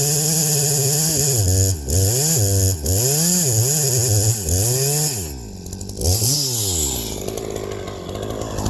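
Two-stroke chainsaw engine held at high revs, then revved and let drop about five times, its pitch falling and climbing each time. Near the end it drops back to a lower, rougher running sound.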